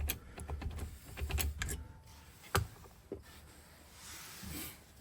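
Light clicks and clatter of small metal parts being handled: ignition lock cylinders and keys on a workbench, with one sharp click about two and a half seconds in.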